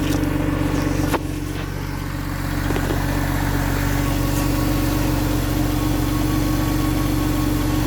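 Porsche 911 flat-six engine idling steadily shortly after a cold start. About a second in there is one sharp click, and the sound briefly drops in level before recovering.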